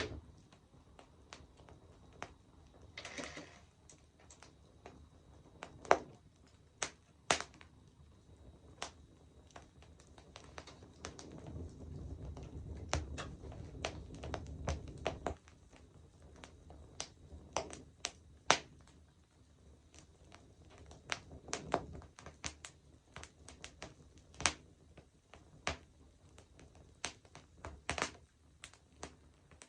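Wood campfire crackling: irregular sharp pops and snaps of burning wood, some close together and some spaced a second or more apart, with a low rumble for a few seconds near the middle.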